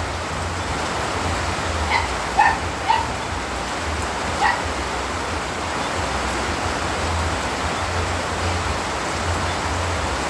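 Steady rain falling, with four short pitched calls, possibly from an animal, between about two and four and a half seconds in.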